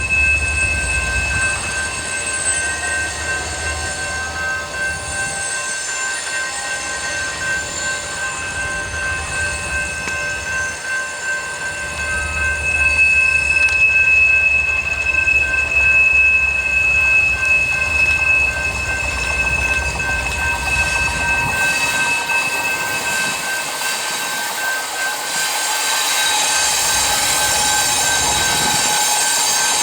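Freight train rolling past, its wheels squealing with steady high-pitched tones over the rumble of the cars.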